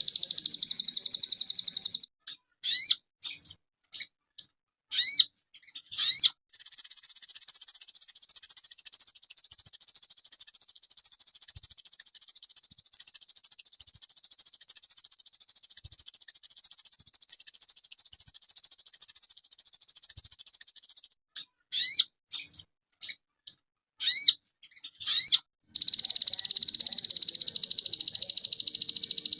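Sogon songbird singing loudly in high pitch: long stretches of rapid, unbroken trilling, with two spells of short separate upward-sweeping chirps, one a few seconds in and one about three-quarters of the way through.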